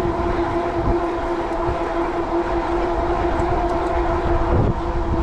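Riding an e-bike into strong wind: low wind rumble buffets the microphone, under a steady whine of several fixed tones that holds unchanged.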